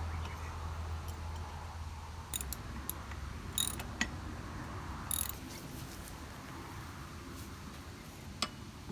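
Scattered sharp metallic clicks and clinks of hand tools on metal mower parts. A low steady hum stops about two seconds in.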